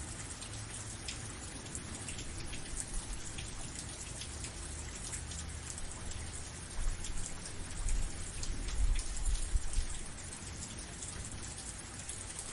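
Steady rain falling, with many sharp individual drop hits over an even hiss. A low rumble swells for a few seconds past the middle.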